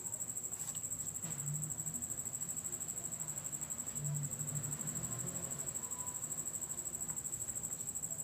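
A cricket trilling steadily, a high continuous pulsing tone, with a few faint taps from kitchen work.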